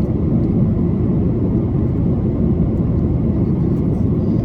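Steady low roar of airliner cabin noise inside an Airbus A330-300 on approach: its Rolls-Royce Trent 700 engines and the rushing airflow, heard from a window seat.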